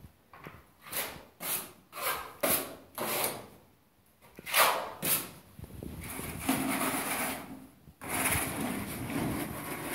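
Steel trowel or spatula scraping and spreading gypsum plaster: short quick strokes about twice a second, a brief pause, then longer drawn-out scrapes in the second half.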